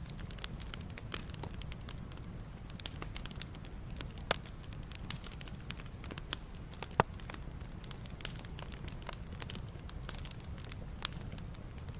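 Wood campfire crackling with frequent small pops and two louder snaps, about four and seven seconds in, over a low steady rumble.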